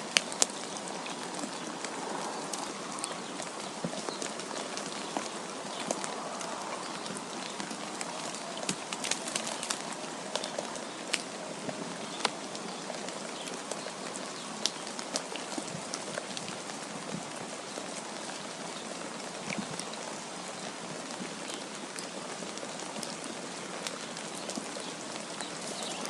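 Steady hiss of wind with falling snow, dotted with scattered light ticks.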